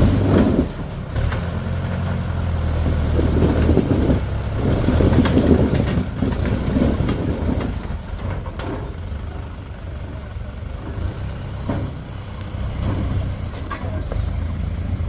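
Heavy diesel engine running, its steady low hum fading after about four seconds, with a few scattered clanks.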